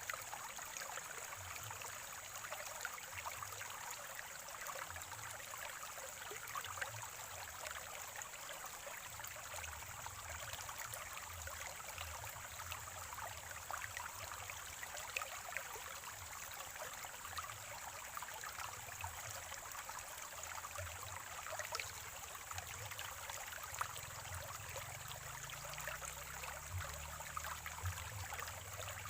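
Water from a natural spring or small stream trickling and gurgling steadily over stones, with many small irregular splashes.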